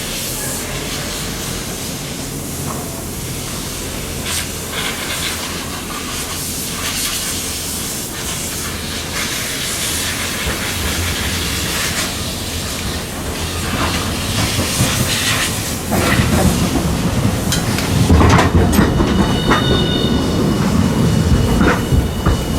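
Hiroden tram running on its rails: a steady rumble with clicks and clacks of the wheels over the track. It gets louder for the last few seconds, and a thin, high wheel squeal comes in near the end.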